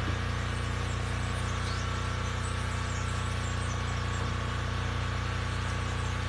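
A steady, unchanging low drone made of several humming tones, like turbines or an engine running without passing, the kind of mysterious sound reported from the sky over Brazil. A few faint high chirps sit over it.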